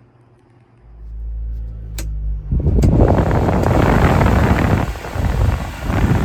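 1993 Subaru Sambar kei truck's small four-cylinder engine running. It grows to a low rumble about a second in and becomes loud and noisy from about two and a half seconds, with a couple of clicks along the way.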